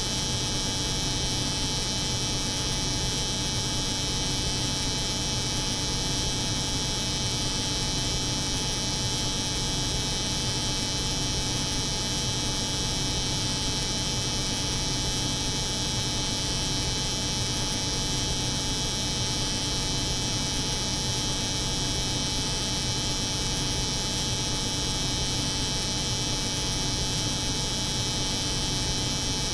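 Steady layered drone: the buzz of an electric hair clipper over the low hum of a refrigerated cold room, with a bright hiss on top and no change.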